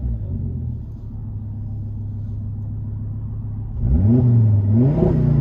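2000 Volvo S70 Turbo's turbocharged inline-five, straight-piped with a side-exit exhaust, idling steadily and then revved twice near the end, the pitch climbing, dipping briefly and climbing again, heard from inside the cabin.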